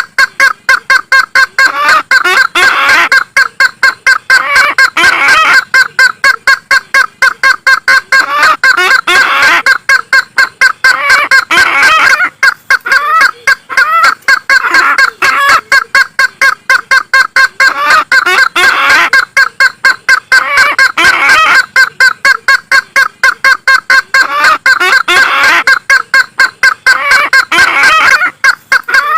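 Lure-call recording of the kareo sulawesi (Isabelline bush-hen), a loud, unbroken run of rapid repeated notes, about four or five a second, swelling in phrases roughly every two seconds.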